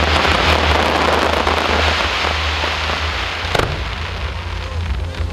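Fireworks crackling densely, thinning out after about three seconds, with a single sharp bang about three and a half seconds in.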